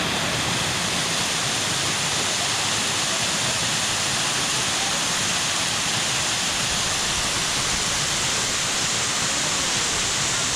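Waterfall rushing: a steady, loud hiss of falling water that does not change.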